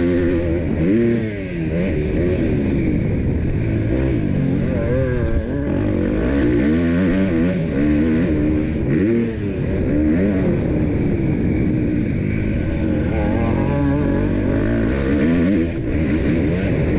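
KTM 250 SX-F single-cylinder four-stroke motocross engine being ridden hard, revving up and dropping back over and over as the throttle opens and closes, its pitch climbing and falling every second or two.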